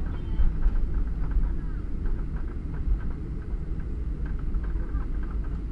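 Steady low rumble of cabin noise inside a Boeing 737, from the engines and the airframe as the airliner rolls on the ground just after landing.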